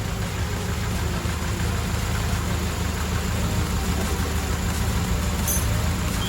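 Mercedes-Benz W124 230E's four-cylinder petrol engine idling steadily with a low, even hum.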